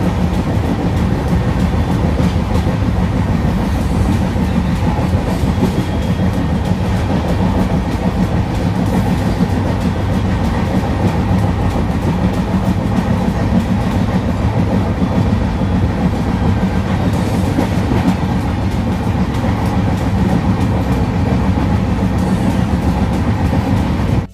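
Steady running noise of a moving express passenger train heard from inside the coach, a low rumble of wheels on rails with faint clicks running through it.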